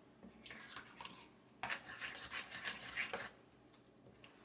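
A utensil scraping and stirring through thick refried-bean dip in a bowl, in a run of irregular strokes for about three seconds, mixing in the spices.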